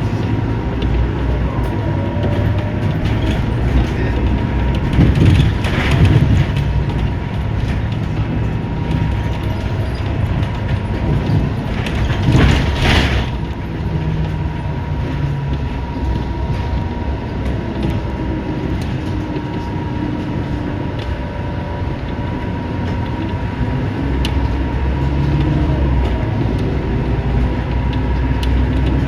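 Scania K230UB city bus heard from inside the cabin while under way: the diesel engine runs with its pitch slowly rising and falling as the bus speeds up and slows, over a steady low road rumble. Two brief louder hissing surges come about five and twelve seconds in.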